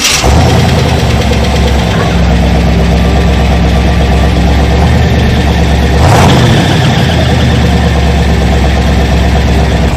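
A 1973 car's 454 big-block V8 running at a steady idle, loud and low, just after being started, with a brief change in its sound about six seconds in.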